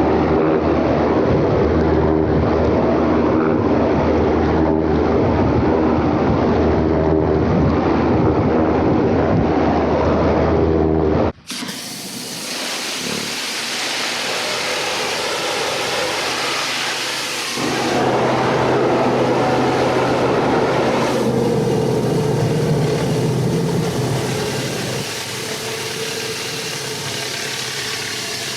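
Pressure-washing rig's engine running steadily. About eleven seconds in the sound cuts abruptly to the hiss of high-pressure water spraying, with the engine still running underneath.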